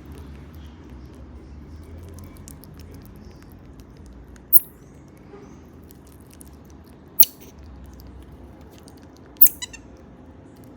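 Marmosets giving three short, very high-pitched calls, a couple of seconds apart, over faint scattered clicks.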